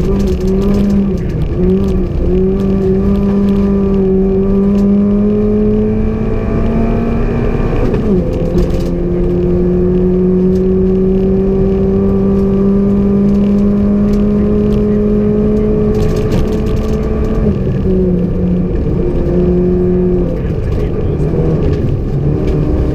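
Rally car's engine heard from inside the cabin, running hard under full throttle on a snowy gravel stage, its pitch climbing slowly, dropping sharply at an upshift about eight seconds in, then climbing again. In the last few seconds the note breaks up and falls as the throttle is eased, over steady road and tyre noise.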